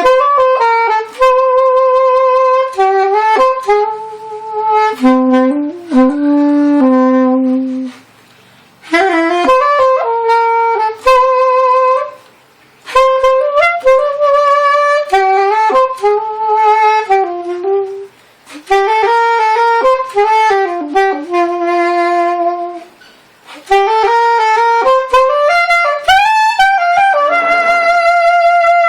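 A Boston-brand baby saxophone played solo: a melody in phrases of a few seconds, separated by short breathing pauses, ending on a long held note.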